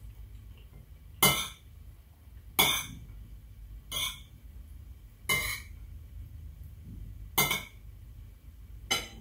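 Metal spoon and fork clinking and scraping against a plate while scooping fried rice: six sharp clinks, about one every one and a half seconds.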